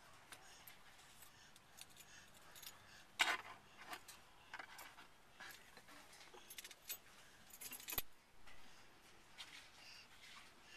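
A bunch of keys being handled and jingled faintly in scattered short bursts, as if fumbled toward an ignition, with one sharp click about eight seconds in.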